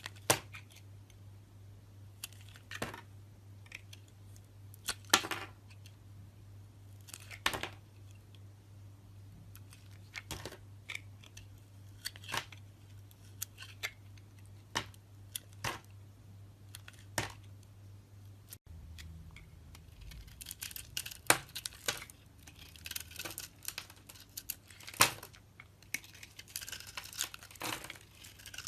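Blade carving a bar of soap: crisp scraping and snapping cuts, spaced a second or two apart at first and coming thick and fast in the last third, over a low steady hum.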